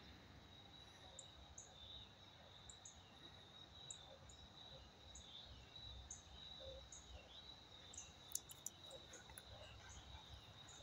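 Faint evening insect chorus: a steady high-pitched insect drone with scattered short chirps over it.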